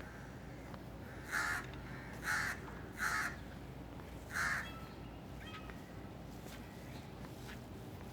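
A bird calling four times, each call short and loud, about a second apart, over a steady low background rumble.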